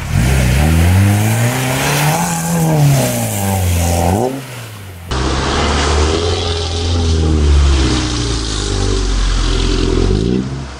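The 2.0-litre Lada Niva's engine revving hard, its pitch rising and falling again and again as the 4x4 ploughs through deep muddy water. It breaks off briefly about halfway, then revs on, with water splashing around the car.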